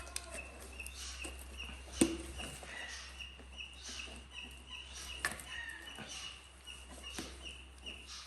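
A baby bird cheeping over and over, a thin high note about two or three times a second, with a sharp knock about two seconds in and a few fainter knocks later.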